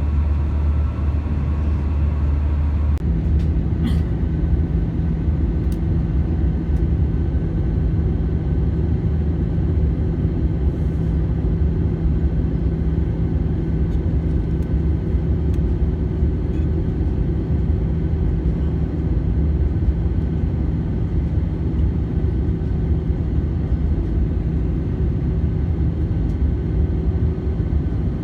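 Steady cabin noise of an Airbus A320 in flight: a low rumble of engines and airflow with a constant hum. About three seconds in, the pitch of the hum shifts.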